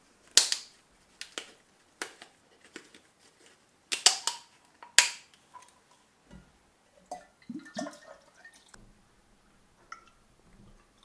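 Irregular sharp knocks and clicks of hard objects being handled, the loudest about half a second in and around four and five seconds in. Quieter handling and rustling follows in the second half.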